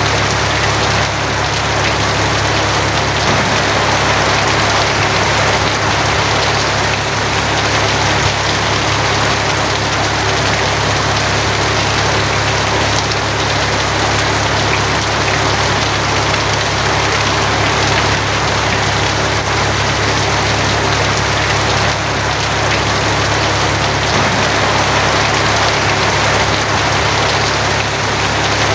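Steady rain on a tin roof, an even hiss of drops with no thunder clap, over a constant low hum.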